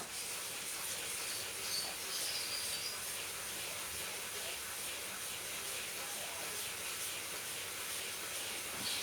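Steady hiss of a low gas-stove flame under a pan of bird-feed grain being dry-roasted.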